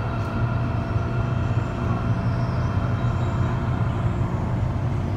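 MTR Disneyland Resort Line M-Train running along the line, heard from inside the car: a steady rumble with a constant-pitch hum.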